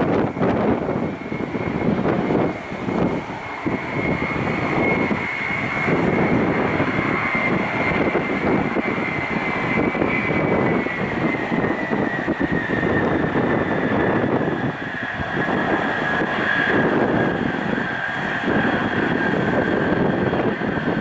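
Tupolev Tu-134UB-L jet airliner on its takeoff, its two Soloviev D-30 turbofans giving a loud, rushing roar with a high whine on top. About halfway through, the whine slides slowly down in pitch.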